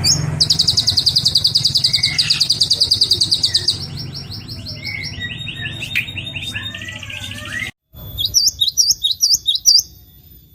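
Songbird recordings: a rapid, even trill of about ten notes a second that drops to a lower, quieter trill about four seconds in. It cuts off abruptly just before the end, and a different bird follows with a quick series of sharp, high, swooping chirps.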